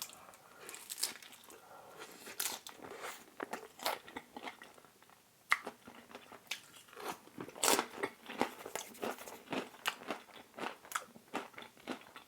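Close-up chewing and crunching of crisp thin-crust seaweed pizza, a run of sharp crackly bites with a brief lull about five seconds in.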